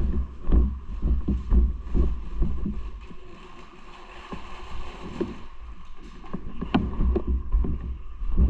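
Wind buffeting an action camera's microphone while riding, a gusting low rumble over road and traffic noise, with scattered knocks and one sharp click about two-thirds of the way through.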